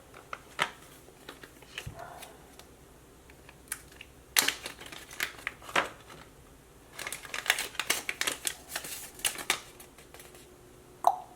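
Small hard parts of an HPI Baja 5B differential clicking and clattering as it is taken apart by hand: irregular clicks and taps, busiest about four and a half seconds in and again from about seven to nine and a half seconds.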